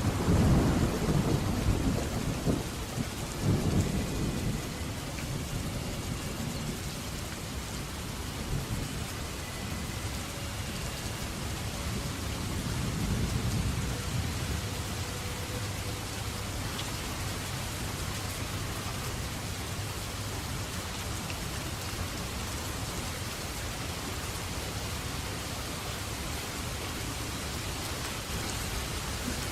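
Steady heavy rain falling, with a loud roll of thunder rumbling through the first few seconds and a fainter rumble of thunder around the middle.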